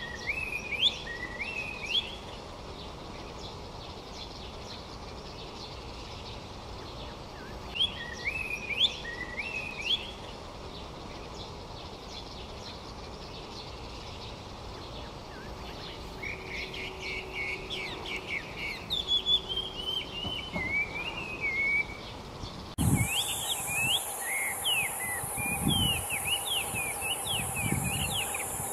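Taiwan hwamei singing in short phrases of rising whistled notes, then a longer, more varied phrase. About three-quarters of the way in the sound changes abruptly to a steady high insect buzz, with further song notes and a few low thuds.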